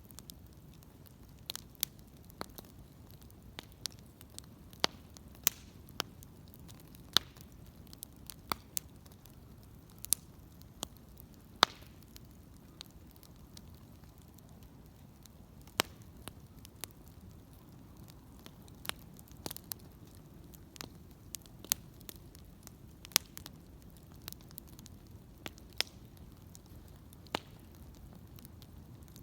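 Wood bonfire crackling, with sharp, irregular pops about once a second over a faint low rush.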